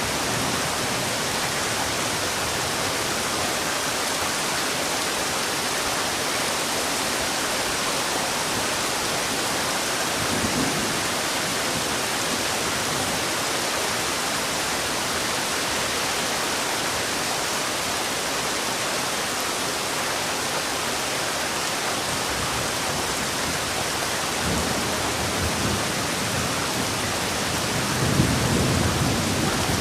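Heavy rain falling steadily: a dense, even hiss. Low rumbles swell up briefly about ten seconds in, again a few seconds before the end, and most strongly near the end.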